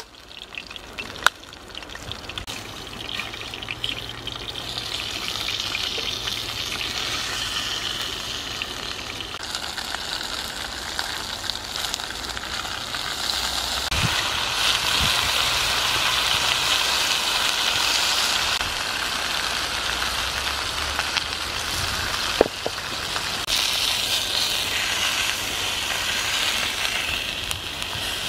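Pig's head frying in hot oil in a wok over a wood fire: a steady crackling sizzle that grows louder over the first half, with a sharp click or two.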